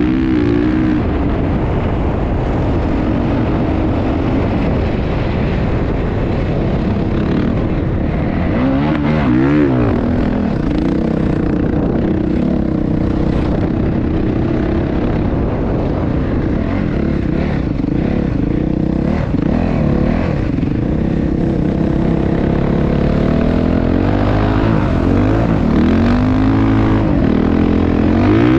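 Motocross motorcycle engine running loud and continuous over a rushing noise, its pitch rising and falling as the revs change, most clearly about nine seconds in and again several times near the end.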